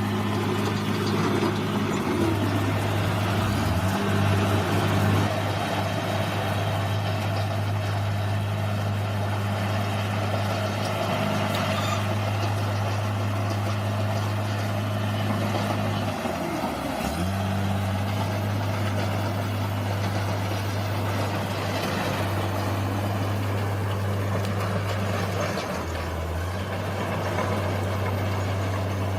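Bulldozer's diesel engine running steadily, its pitch dropping briefly about three seconds in, again about seventeen seconds in and once more near the end, over a constant mechanical clatter.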